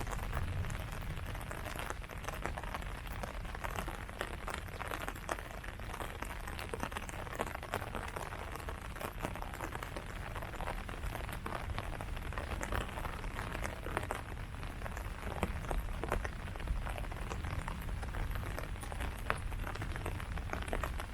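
Steady rain falling on tree leaves: an even hiss with many separate drop hits throughout.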